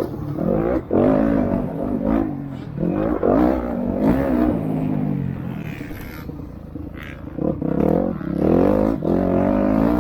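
Motocross bike engines revving hard, pitch rising and falling as riders open and close the throttle and shift through the gears; the sound eases for a moment past the middle, then swells again near the end.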